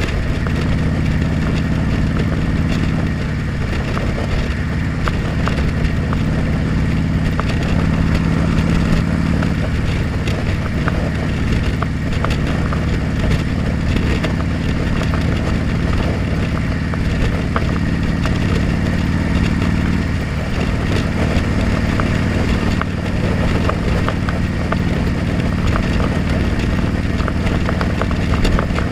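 Motorcycle engine running steadily while riding, with wind rushing over a helmet-mounted camera. The engine note shifts slightly a few times.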